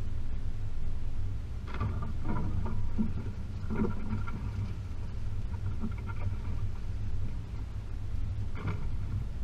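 Range Rover P38's 4.0 V8 and drivetrain rumbling steadily at low speed over a rough track, with a few short rattles about two seconds in, about four seconds in and near the end.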